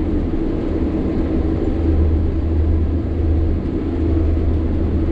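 Sany 6x4 dump truck's diesel engine running steadily under load with a deep, even drone, pulling up a climb.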